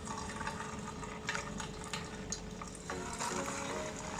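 Paneer pieces frying in hot oil: a steady sizzle with scattered small crackles.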